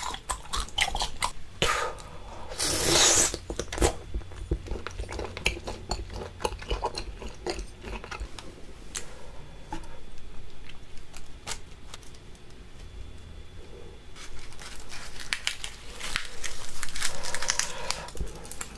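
Close-miked chewing of chewy octopus: wet mouth clicks and smacks, with a brief loud noisy burst about three seconds in. Near the end, a fresh lettuce leaf crinkles as it is folded in the hands.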